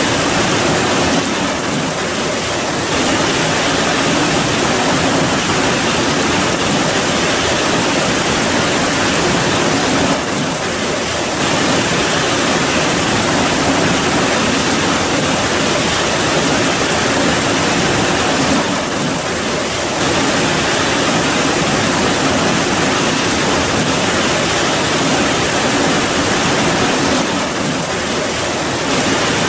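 Steady heavy rain, a dense even hiss with no separate drops standing out, dipping slightly in level for a moment about every eight or nine seconds.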